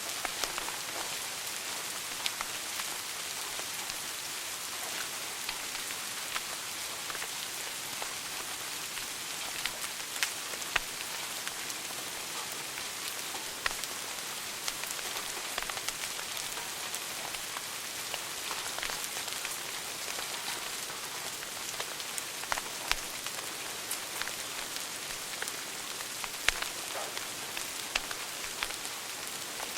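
Wood fire crackling in a fireplace: a steady hiss with frequent small sharp pops, and now and then a louder crack.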